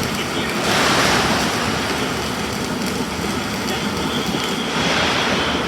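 Self-shielded flux-core (Lincoln Innershield NR305) welding arc running as a steady hiss, swelling louder twice, about a second in and near the end.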